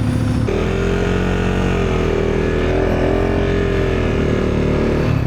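Husqvarna Svartpilen 401's single-cylinder engine running under way. Its pitch rises about half a second in, holds with a slight waver, then drops back near the end.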